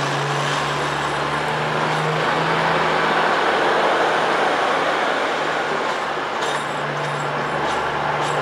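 Class 222 Meridian diesel multiple unit running at the platform, a steady engine drone with a low hum that steps up slightly in pitch in the first second.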